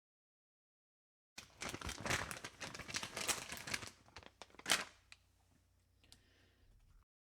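A dense run of crackles and clicks begins about a second and a half in and lasts about two and a half seconds. A single sharp crack follows, then fainter crackling that stops abruptly near the end.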